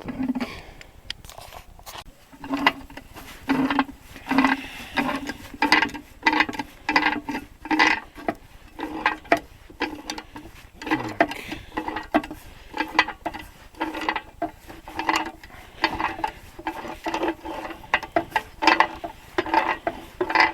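A pipe wrench turning a puller bolt against a gearbox input shaft, drawing a bearing and clutch cover off it: a run of short metal scraping and creaking strokes, about one or two a second.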